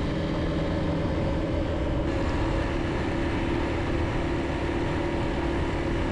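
Bajaj Pulsar motorcycle engine running at a steady cruise, its hum holding nearly one pitch with a slight shift about two seconds in, under a steady rush of wind and road noise.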